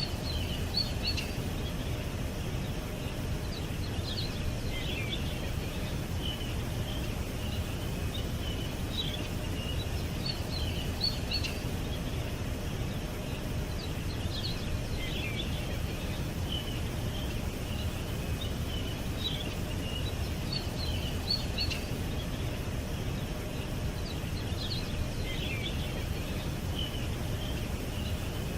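Small birds chirping and twittering in short, high, repeated phrases over a steady low background rumble.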